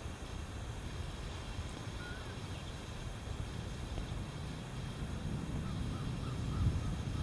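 A few short, faint bird calls over a low rumble that grows louder near the end.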